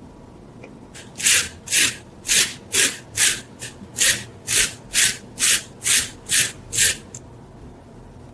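About a dozen rhythmic scraping strokes of an abrasive hand tool on rusty metal, roughly two a second, each a short hiss, stopping near the end.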